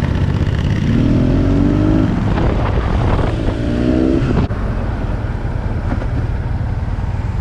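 BMW R 1200 GS boxer twin with an SC Project exhaust, riding under a low road and wind rumble. The engine pitch rises twice as it accelerates, then the sound drops suddenly about four and a half seconds in to a steadier, lower rumble.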